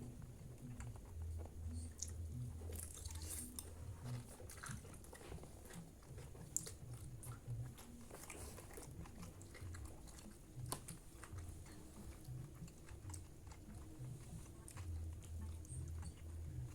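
Close-up chewing of fried rice and fried noodles, with rhythmic low thumps of the jaw and scattered sharp clicks.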